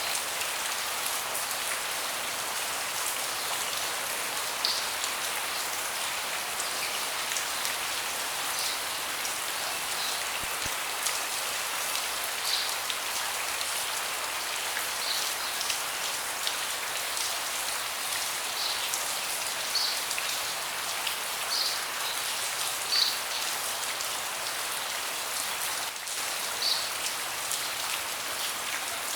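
Steady rain falling on a deck, an even hiss, with louder single drops landing every few seconds.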